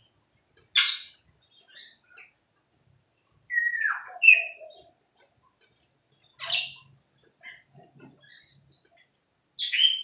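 Caged birds calling: four loud, sharp calls spaced a few seconds apart, one falling in pitch, with fainter chirps between them.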